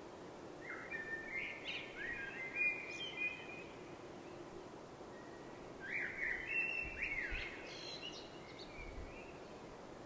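A songbird singing two phrases of quick rising and falling notes, each about three seconds long with a pause of about two seconds between, over a steady faint background hiss.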